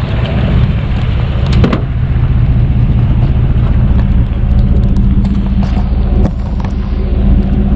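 Vehicle engine running steadily with a loud low rumble, with a few sharp clicks and knocks over it.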